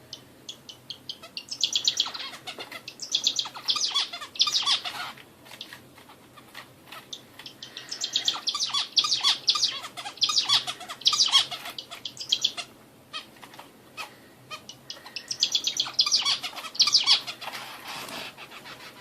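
A caged songbird sold as a 'hint bülbülü' (Indian nightingale) singing in three bouts of rapid, high chirping phrases, with short pauses between them. A faint steady low hum runs underneath.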